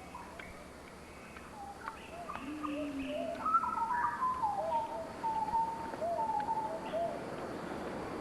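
Birds calling in a series of short whistled notes and slides, with one lower cooing note about two and a half seconds in; the calls grow louder from about two seconds in.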